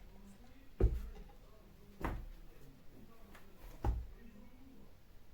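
Three heavy knocks or bangs on a door, at uneven intervals of a second or two.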